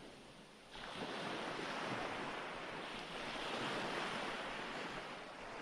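Ocean waves washing onto a shore: quiet at first, then a wave surges in suddenly under a second in and the wash swells and eases twice.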